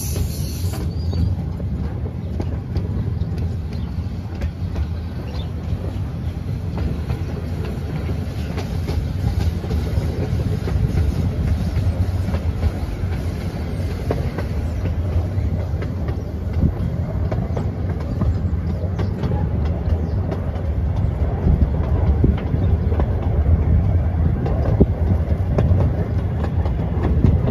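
Small-gauge train rolling along the track, heard from its locomotive's tender: a steady low rumble with a constant clickety-clack of wheels over the rails. It gets somewhat louder near the end.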